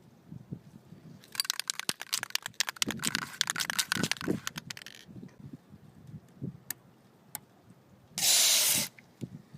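An aerosol can of white lithium spray grease is shaken for about four seconds, its mixing ball rattling, then gives one short burst of spray near the end.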